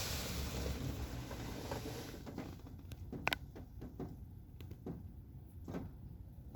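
Car wash water spray hissing on a car, fading out over about two seconds, then scattered drips and small taps of water.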